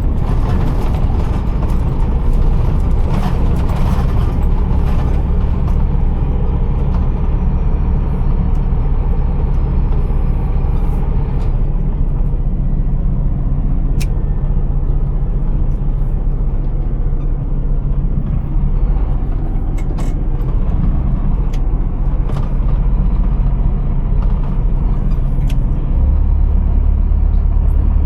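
Scania R480 truck's straight-six diesel engine running steadily, a deep continuous rumble heard from the cab, with a few light clicks. Near the end the low rumble grows stronger.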